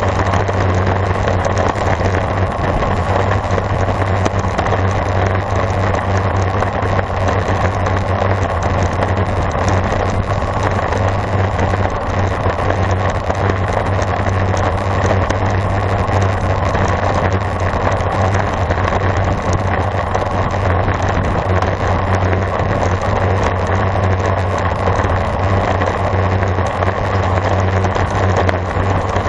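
Steady rush of wind over the microphone of a camera carried on a road bicycle during a race, with no break or change.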